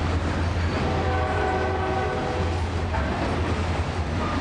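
Freight train of ballast hopper cars rolling past with a steady rumble and clatter of wheels on the rails. About a second in, a horn sounds for roughly a second and a half.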